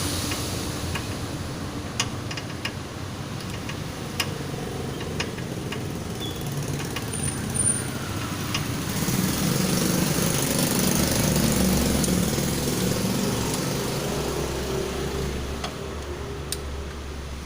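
A motor vehicle engine running, swelling about halfway through and then fading, with scattered sharp clicks.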